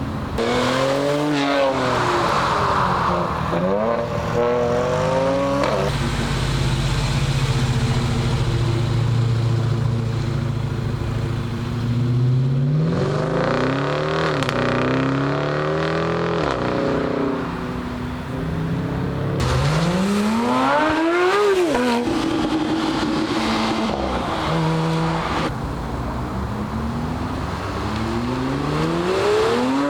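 Car engines revving and accelerating hard one after another as cars pull out, the engine note climbing and dropping with each rev and gear change, with one engine held at a steady note for several seconds.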